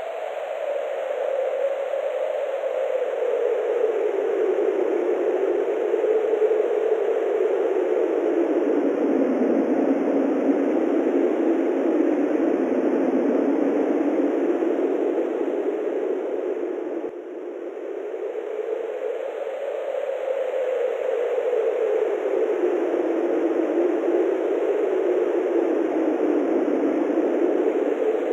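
Wind blowing steadily, a hollow whooshing noise whose pitch slowly falls and rises again over several seconds. It dips briefly about seventeen seconds in.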